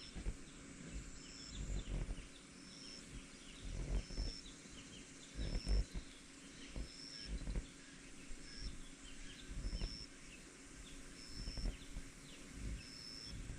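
Outdoor ambience with gusts of wind buffeting the microphone in low, uneven rumbles. Over it a short, high-pitched chirp repeats steadily about every second and a half, with faint scattered chirping behind it.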